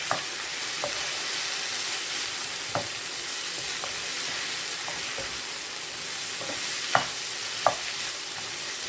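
Vegetables frying in oil in a pot, a steady sizzling hiss. A few sharp clicks or pops stand out, the loudest two near the end.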